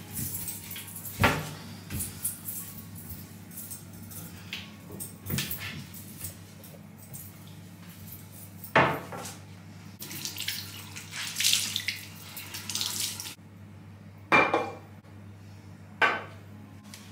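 Dishes and cutlery being washed at a kitchen sink: scattered clinks and knocks of crockery, with the tap running for about three seconds before being shut off abruptly.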